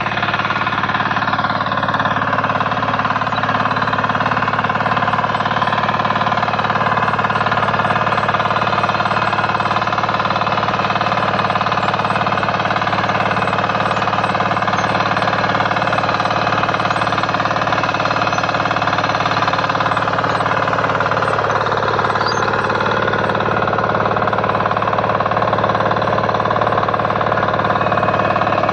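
KisanKraft 406D power weeder's 418 cc single-cylinder diesel engine running steadily. Its pitch wavers and sags slightly about two-thirds of the way through.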